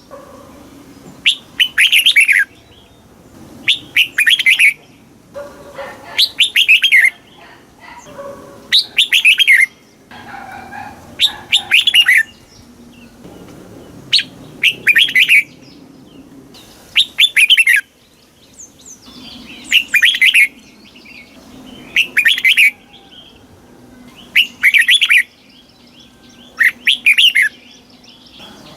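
Red-whiskered bulbul singing: short, loud warbling phrases repeated about every two seconds.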